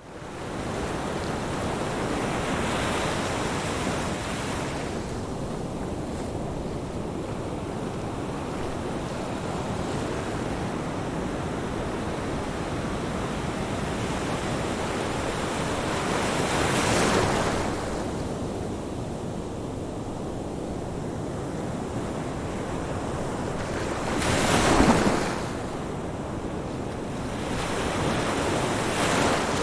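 Ocean waves breaking on a shore: a steady wash of surf, rising in louder surges about 3 s, 17 s and 29 s in, the loudest wave breaking about 25 s in.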